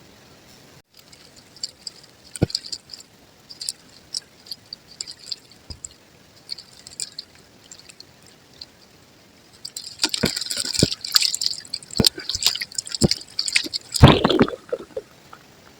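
Soft white concrete crumbling, with sparse small crunches and crackles at first. About ten seconds in they turn dense and louder, and the loudest crunch comes near the end.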